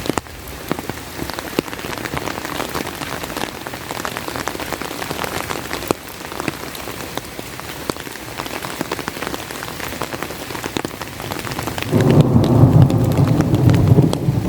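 Heavy rain falling steadily, with many sharp drop hits close by, likely on an umbrella. About twelve seconds in, a loud low rumble of thunder starts and carries on to the end.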